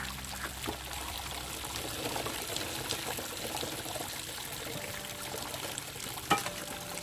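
Liquid trickling and pouring, with scattered small clicks and one sharp knock about six seconds in.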